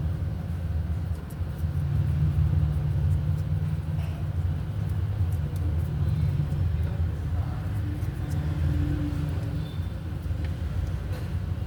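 Toyota Lite Ace's diesel engine idling steadily with a low rumble.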